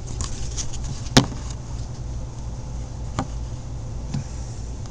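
A steady low hum with a few light clicks or knocks, the sharpest about a second in.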